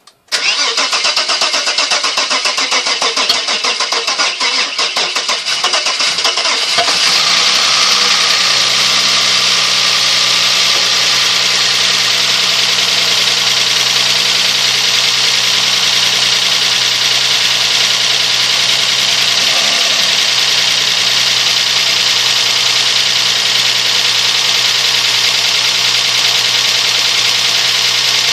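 Freshly rebuilt 3-litre V6 of a Vauxhall Cavalier cranking on the starter for about six seconds before it catches, then settling into a steady idle.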